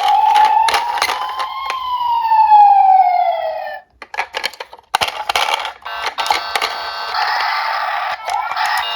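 Police siren wail: one slow rise and fall in pitch that cuts off abruptly just under four seconds in. Sharp clicks and clatter follow, then a steadier, buzzier electronic sound.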